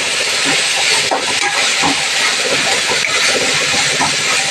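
Ginger-garlic paste, onions, curry leaves and green chillies frying in hot oil in a pan, with a steady sizzle.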